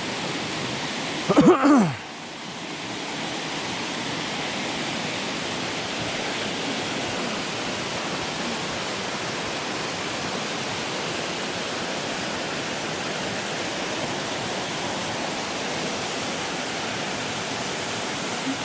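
Steady rushing noise of running water. A short vocal sound with falling pitch comes about a second and a half in.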